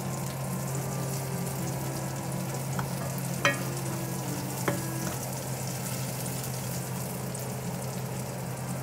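Sliced onion and garlic sizzling steadily in oil in a stainless-steel frying pan as they are stirred with a spoon, with a few sharp knocks of the spoon against the pan, the loudest about three and a half seconds in. A steady low hum runs underneath.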